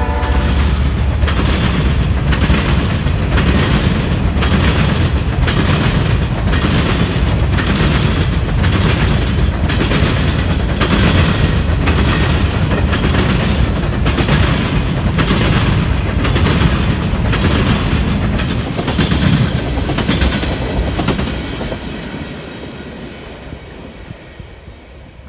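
Freight train of covered grain hopper cars rolling past close by, with a steady low rumble and evenly repeating wheel clacks over the rail joints. The sound fades away over the last few seconds.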